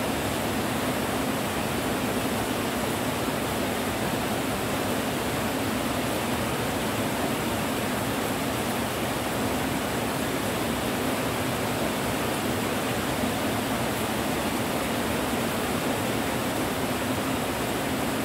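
Steady rain: an even, unbroken hiss with no separate drops standing out.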